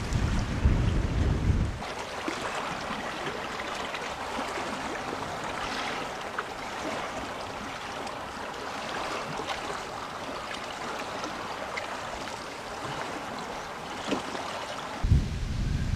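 Wind buffeting the microphone with a low rumble, dropping away after about two seconds to a steady hiss with scattered faint ticks, then buffeting again near the end.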